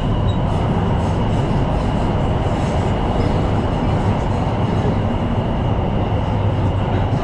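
Tyne & Wear Metrocar running steadily along the line, heard from the cab: a constant rumble of wheels and traction equipment with a steady high-pitched whine.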